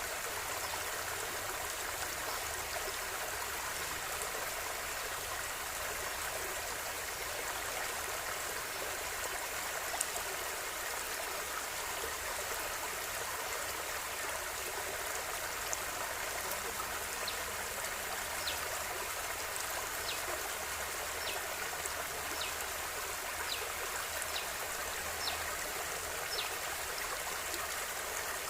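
River water flowing steadily, an even rushing hiss, with a scatter of short, high ticks about once a second in the second half.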